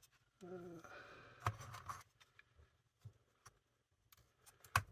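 Scattered light clicks and knocks as the speaker and plastic case parts of a Sony ICF-2001 radio are handled and fitted back together, the loudest a sharp knock near the end.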